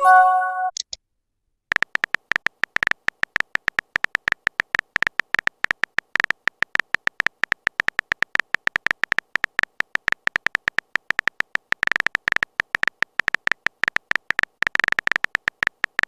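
Phone-keyboard typing sound effect: a rapid, uneven stream of short bright clicks, each with a high tone, for typed chat messages. It begins after a brief message-notification chime at the very start.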